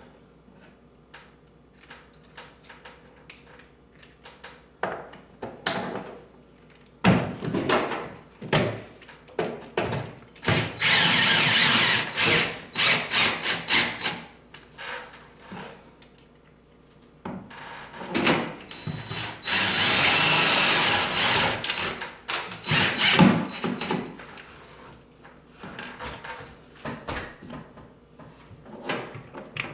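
Power drill running in two runs of about three seconds each, with scattered knocks and handling clatter around them.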